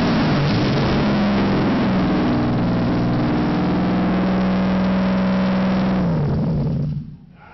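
Used 3.0 Duratec V6 in a Ford Taurus running on its first start-up after an engine swap. The pitch climbs and holds high, then winds down, and the engine stops about seven seconds in.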